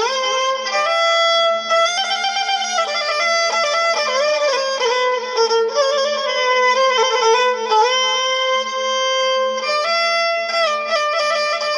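Instrumental interlude of an Iraqi Mohammadawi mawwal: a violin plays long held notes that slide from one pitch to the next, with quick ornamental turns in between.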